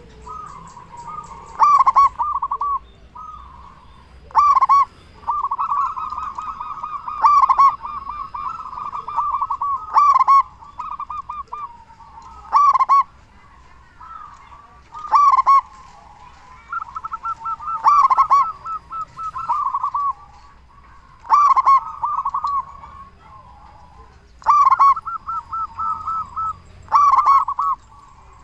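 Zebra doves (perkutut) cooing in repeated staccato phrases. A loud phrase comes every two to three seconds, with softer cooing between.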